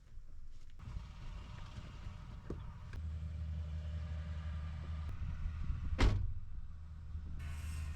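Low steady hum of a vehicle engine running, starting about three seconds in, with one sharp thump about six seconds in.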